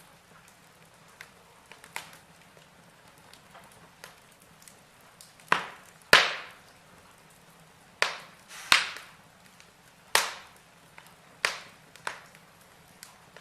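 Logs burning in a fireplace, crackling with sharp, quickly fading pops over a low hiss. The pops are scattered and come more often in the second half, the loudest about six seconds in.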